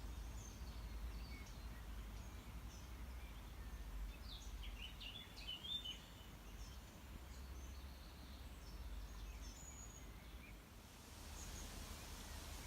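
Several small songbirds chirping and singing in short scattered calls, busiest in the middle, over a low steady rumble.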